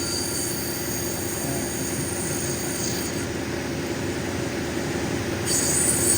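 Cabbing machine running with a 220 sintered diamond wheel as an opal is ground against it: a steady motor hum under a grinding hiss. The hiss brightens briefly near the start and again near the end.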